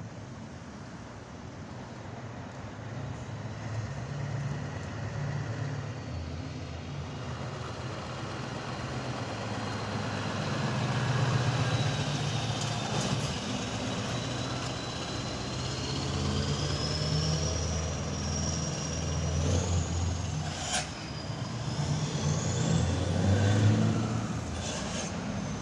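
Scania V8 truck engine running, growing louder over the stretch, with a high thin whine gliding slowly upward in pitch through the second half. A brief sharp click sounds about twenty seconds in.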